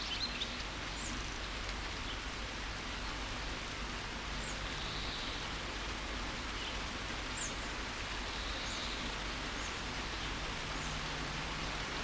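Steady rain hiss with a few short, high bird chirps scattered through it. A brief burst of birdsong fades out about half a second in.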